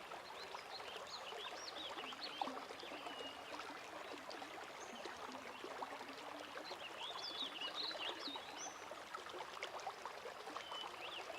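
Lake water gently lapping and trickling, with small birds chirping in short, high twittering phrases, busiest about seven to eight seconds in.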